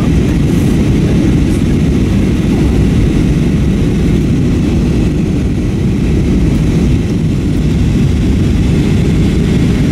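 Steady cabin rumble of an Airbus A321-232 in flight, the drone of its IAE V2500 jet engines and the airflow, heard from a rear window seat. Even and unchanging, heaviest in the low end with a fainter hiss above.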